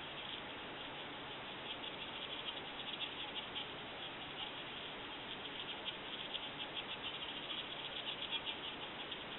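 Rapid, high-pitched insect-like clicking in irregular trains over a steady hiss, growing denser from about two seconds in.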